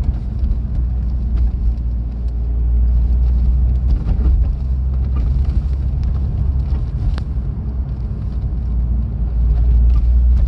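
Chevrolet Corvette C5 running: a steady low rumble with a few faint ticks over it, swelling about a third of the way in and again near the end.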